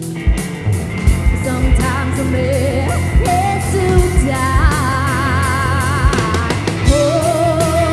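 Psychedelic rock band playing live: a voice sings long, wavering held notes over drum kit, bass and guitar, with the drums keeping a steady beat.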